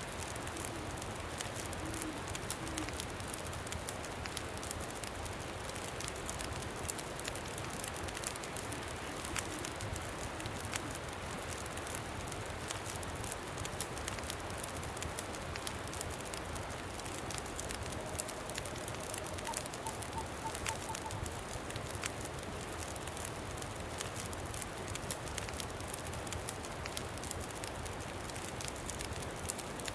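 Campfire crackling with a steady wind rushing over it, many small pops scattered throughout. About two-thirds of the way through comes a brief call, a short tone followed by a quick run of high pips.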